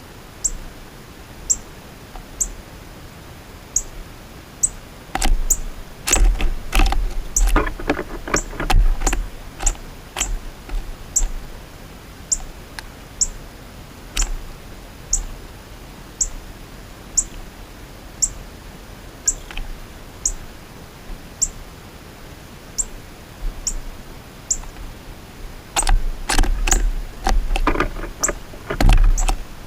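A short, high chirp repeated evenly about once a second. Two spells of quick clicking and tapping, one about five to ten seconds in and one near the end, come with a low rumble.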